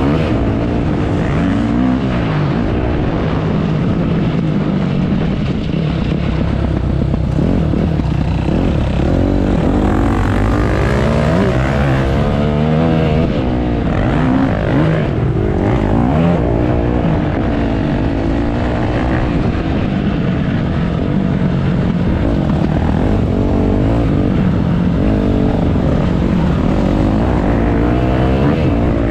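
Motocross bike engine running hard, revving up and down again and again as the throttle opens and closes.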